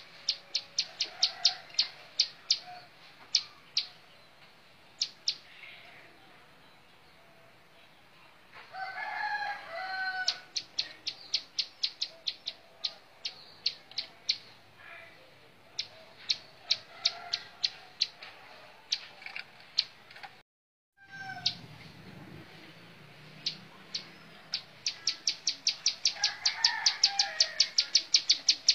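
Ciblek sawah, a prinia, singing: runs of sharp, high ticking notes at about eight a second, broken by short lower warbled phrases. About two-thirds of the way through the sound drops out completely for a moment.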